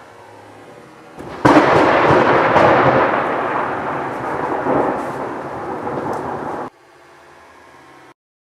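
Thunderclap from a close lightning strike: a sudden loud crack about a second and a half in, then rumbling thunder that slowly fades before cutting off abruptly. Faint rain hiss before and after it.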